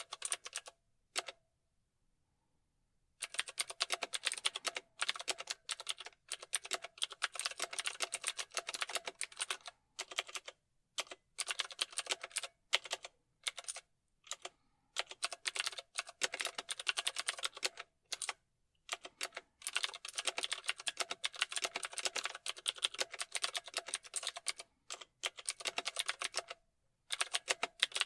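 Computer keyboard typing: rapid runs of key clicks in bursts of several seconds, broken by brief pauses, the longest of about two seconds near the start.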